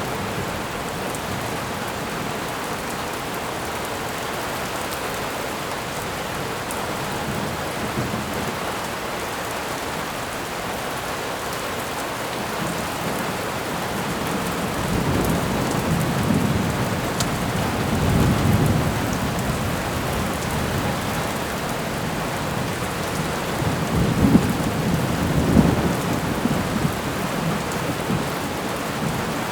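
Thunderstorm: steady heavy rain hissing throughout, with low thunder rumbling up twice in the second half, the louder roll about two thirds of the way in.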